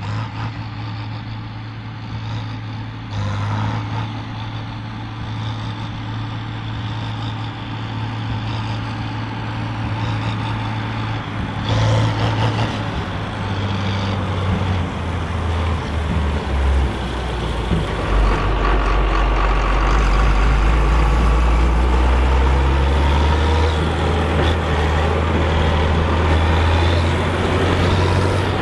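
John Deere 4955 tractor's six-cylinder turbo diesel running hard while pulling a Krone BigPack big baler. From about halfway in, the engine note drops deeper and the sound grows louder.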